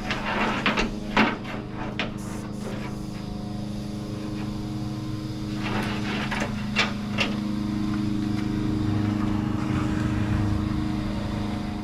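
Air compressor running with a steady drone while a tire is being inflated, with short bursts of hissing air and clicks from the tire chuck twice. The tire's bead has not seated yet.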